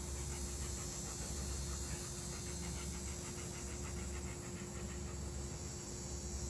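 A dog panting quickly and evenly.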